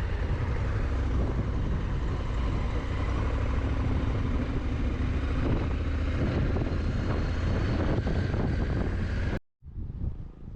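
Motorcycle on the move: the Honda Africa Twin's engine running under heavy wind rush on the microphone, loud and steady. It cuts off abruptly near the end to a much quieter sound.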